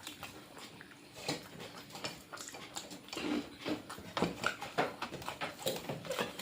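Close-up eating sounds: irregular chewing, mouth clicks and lip smacks from someone eating a meal.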